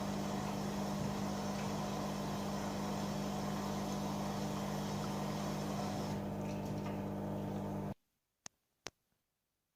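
AEG Öko-Lavamat 88840 front-loading washing machine running mid-cycle with a steady hum. The hum cuts off abruptly about eight seconds in and is followed by two short clicks.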